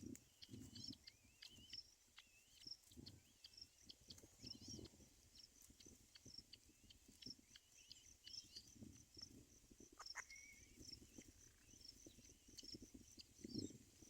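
Faint, high-pitched bird chirps and cheeps, some short and repeated, some gliding, over soft rustling and bumps.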